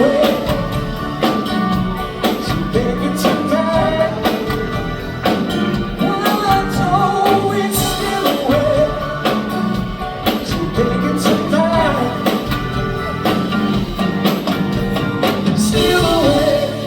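Live soft-rock band playing, with singing over a steady drum beat.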